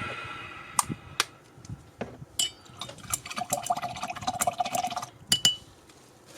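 Small glass clinks and a quick rattling patter: a paintbrush being swirled in a glass water jar and tapped against its rim to rinse it between paints, ending with two sharper clinks, one of which rings briefly.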